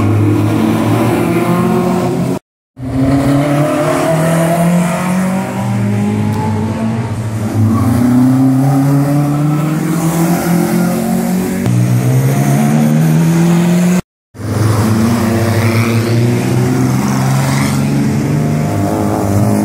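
Classic sports-car engines running hard on a short circuit, the engine note climbing in pitch several times as the cars accelerate past. The sound cuts out completely twice, briefly.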